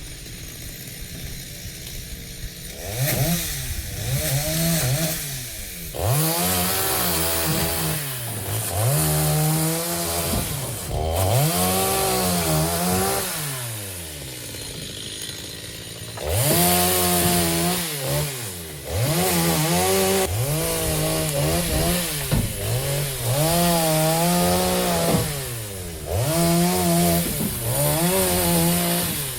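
Chainsaw cutting acacia logs, its engine revving up and falling back again and again, every second or two. It drops to a lower, quieter run for a few seconds about halfway through before revving again.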